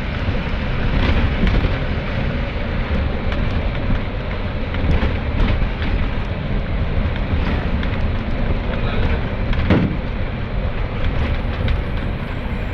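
A motorcycle running on the road, heard as a steady, dense rumble with a few short clicks and knocks.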